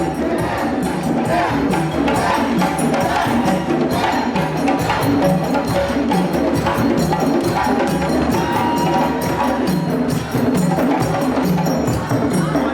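African percussion ensemble drumming a fast, steady rhythm, with sharp higher strokes over a repeating low drum pattern.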